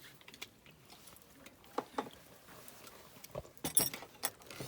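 Light clicks and knocks of chopsticks and tableware during a meal: a couple about two seconds in and a quick cluster near the end.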